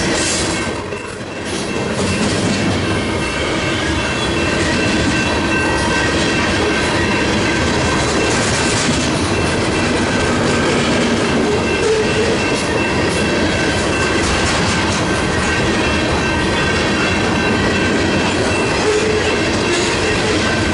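Covered hopper cars of a CN potash freight train rolling past close by: a loud, steady rumble of steel wheels with clickety-clack over the rail joints, and steady high-pitched tones above it. The sound dips briefly about a second in.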